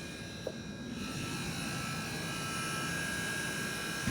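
MG4 electric car's air-conditioning system running under the bonnet: a steady buzz with a high whine over a low hum, growing a little louder about a second in. The owner has never heard an AC make this noise and takes it for a fault.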